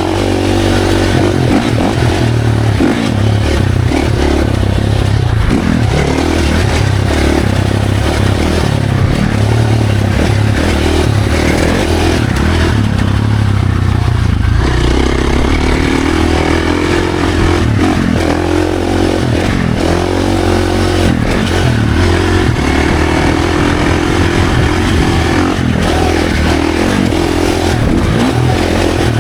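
Dirt bike engine running hard on a trail ride, its pitch rising and falling again and again as the throttle opens and closes, with a dip about halfway through, over rattle and wind noise.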